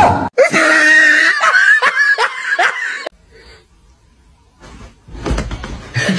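Laughter in quick repeated bursts that stops about three seconds in, followed after a short lull by a noisier stretch of similar sound near the end.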